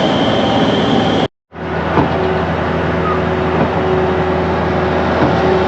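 Heavy diesel engine of a concrete pump truck running steadily on a job site. It breaks off in a short total silence about a second in, then resumes.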